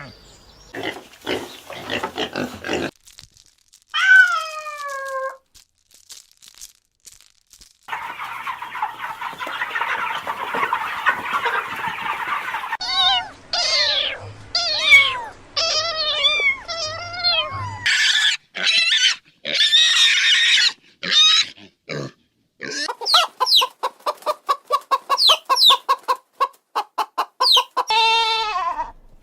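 Farm animal calls one after another: a single falling call, a rough noisy stretch of several seconds, then many short arching calls in quick runs and a rapid chattering series near the end.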